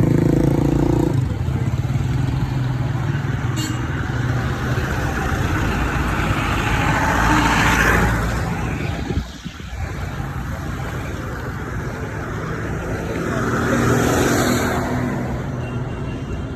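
Vehicle engine and road noise heard while travelling: a steady low hum under continuous noise that swells about seven seconds in and again near the end, with a brief drop in between.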